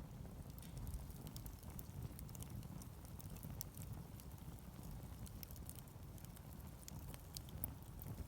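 Wood campfire crackling, with scattered small sharp pops and snaps over a steady low rumble.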